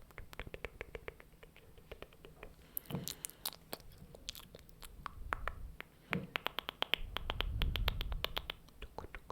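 Rapid run of short, close-up clicks and taps, several a second, coming quicker and more densely in the second half, with a low rumble underneath near the end.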